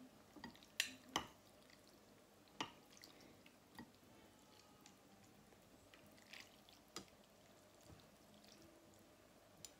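Faint, scattered clicks and small liquid drips, about half a dozen over several seconds, from utensils moving in a bowl of noodle soup.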